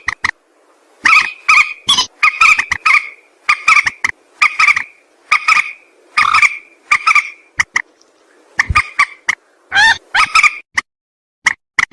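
Mandar sawah rail calling: loud, nasal, pitched notes repeated in quick runs with short pauses between them, as on a bird-luring recording.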